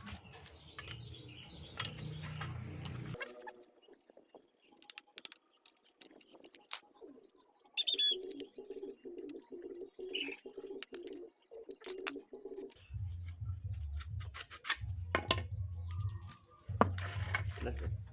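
Birds calling: short high chirps twice, alongside a pulsing lower call that may be cooing, among scattered clicks and a low hum.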